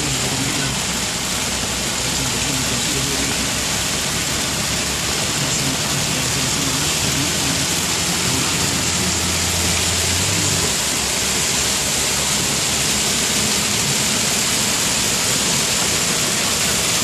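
Heavy rain falling in a steady, even rush. Beneath it runs a low hum that stops about ten and a half seconds in.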